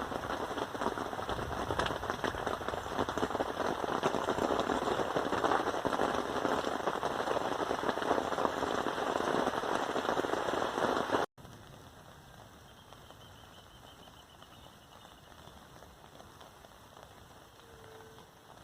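Heavy rain pattering, a dense spatter of many drops, which cuts off abruptly about eleven seconds in to much fainter, steady rain.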